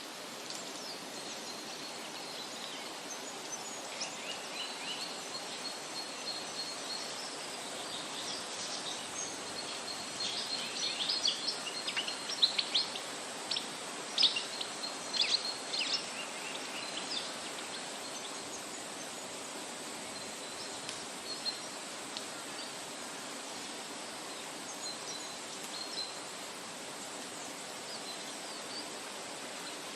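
Birds chirping over a steady background hiss, the chirps clustering most densely around the middle.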